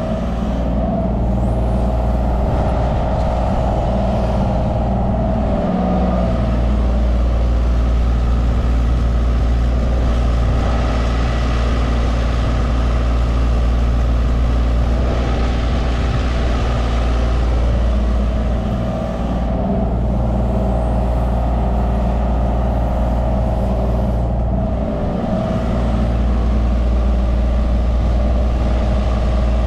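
Mini excavator's diesel engine running steadily under working load, with a slight swell in noise in the middle.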